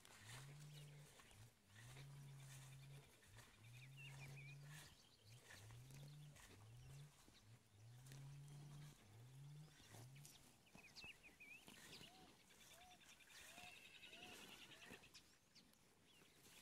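Faint animal calls: a low, pure-sounding call repeated about nine times in pairs over the first ten seconds, each call rising and then holding. After that come a few higher chirps and trills.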